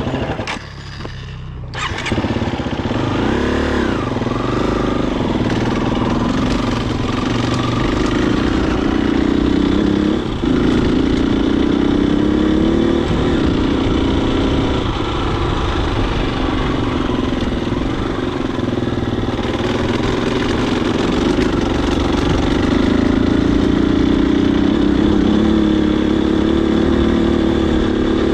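Husqvarna FE250 single-cylinder four-stroke dirt bike engine running under way. It dips briefly near the start, revs up and down a few times just after, then runs steadily with its pitch rising and falling gently.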